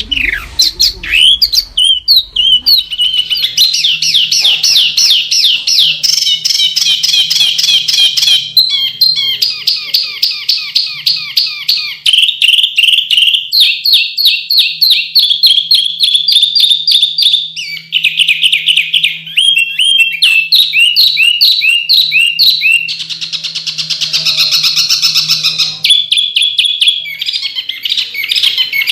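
A songbird singing loud, fast runs of sharp repeated notes packed tightly together, switching to a new trill or chatter every few seconds with only brief gaps.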